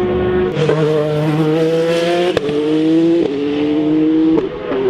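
Race car engine accelerating hard, its pitch climbing through the gears with three quick upshifts, the first about two seconds in and the last near the end.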